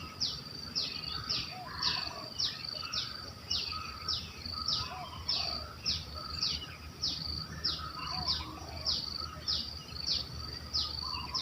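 An insect chirping in an even rhythm, one short high chirp about twice a second, with faint bird calls underneath.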